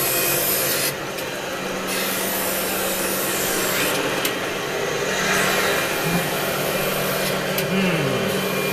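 Surface grinder running: a steady motor hum under a continuous rasping, rushing noise, with a short falling tone near the end.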